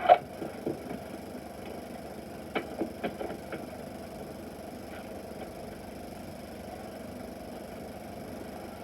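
Steady hum and hiss of an old Super 8 optical film soundtrack with no dialogue, with a handful of sharp knocks in the first few seconds.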